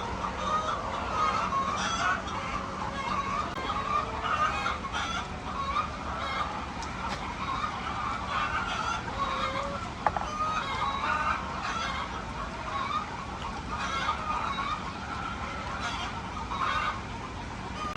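A flock of laying hens clucking and calling continuously, many birds overlapping, over a steady low hum. A single sharp click comes about ten seconds in.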